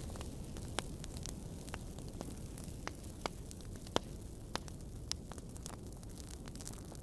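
Fire burning in a fireplace and crackling: scattered sharp pops over a steady low rumble and hiss, the loudest pop about four seconds in.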